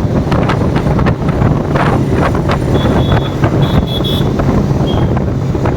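Ride on a Bajaj Pulsar RS200 motorcycle: the engine runs steadily under heavy wind noise rushing over the microphone. A few short high beeps come about three to four seconds in.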